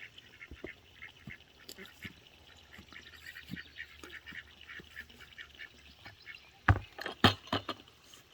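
Ducklings peeping steadily in a rapid chorus of short high peeps. Adult ducks give a few loud, short quacks near the end.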